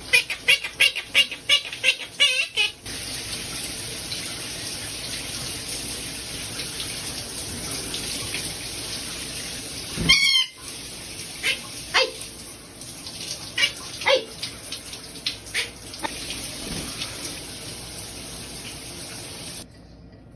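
Water running steadily from a tap, with a small pet bird chirping: a quick run of high chirps at first, then single chirps now and then.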